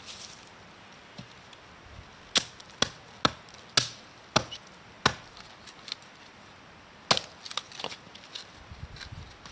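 Wood being chopped or split: a run of sharp woody knocks about half a second apart, a pause, then a second quicker cluster near the end.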